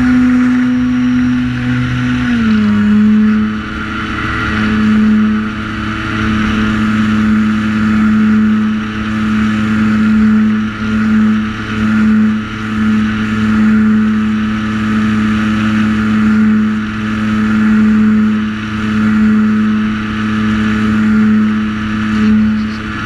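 Multirotor drone's motors and propellers whining steadily in flight, the pitch dropping slightly a couple of seconds in and then holding.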